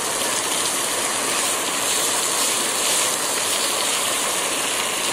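Bitter gourd slices sizzling in hot oil in a kadai, a steady hiss, while a perforated spatula stirs them lightly.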